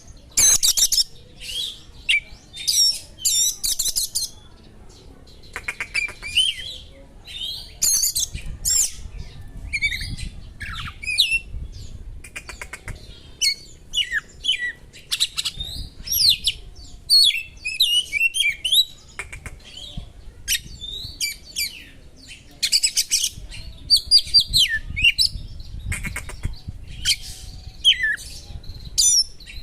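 Oriental magpie-robin (kacer) singing a fast, varied song of sharp whistles, trills and slurred notes, worked through with phrases copied from small birds' calls. Several harsh, rasping notes break in along the way.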